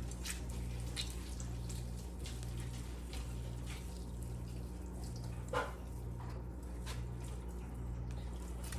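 Wet, sticky squelches and small smacks of cooked chicken breast being pulled apart by hand in a mayonnaise-based dressing, with one louder smack about five and a half seconds in, over a steady low hum.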